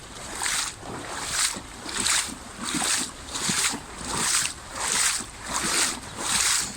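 Legs wading through shin-to-knee-deep floodwater, a swishing slosh with each stride, about four strides every three seconds in an even rhythm.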